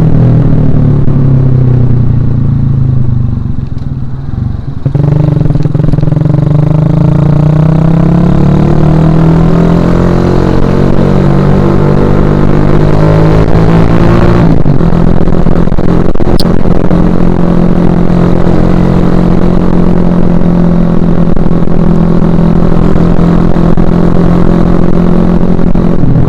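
Suzuki Shogun Axelo R 2011 single-cylinder four-stroke motorcycle engine under way. It winds down and briefly drops off throttle, then revs up steadily for about ten seconds. Its pitch changes abruptly about halfway through, as at a gear change, and it then runs at a steady pitch.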